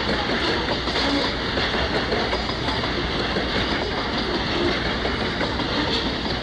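A train running on rails, a steady, unbroken noise with no clear rhythm.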